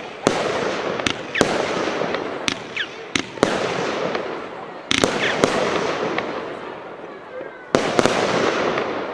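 Consumer firework battery (a 25-shot cake) firing: about ten sharp bangs at irregular intervals over a continuous crackling hiss.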